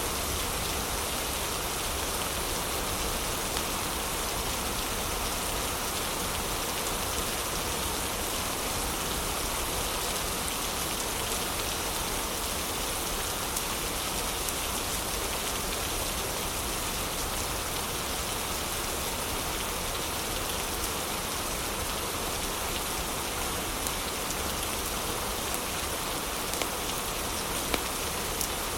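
Heavy rain falling steadily as an even hiss, with a few faint ticks scattered through it, the sharpest near the end.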